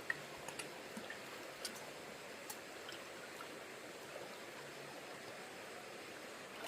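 Steady flow of shallow stream water, with a few faint sharp clicks or splashes in the first few seconds.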